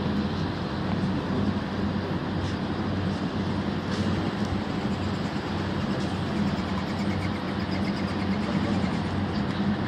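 Model trains running on a layout: a steady rolling noise with an even motor hum and a few faint clicks.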